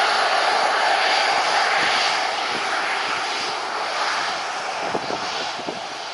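Airliner engines running loud and steady, then slowly fading as the aircraft moves away.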